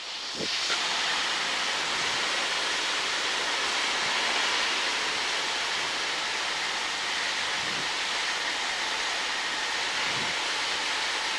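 Steady cabin noise of a Cessna 152 in flight: its piston engine and the airflow blend into an even, unbroken rush, heard on final approach.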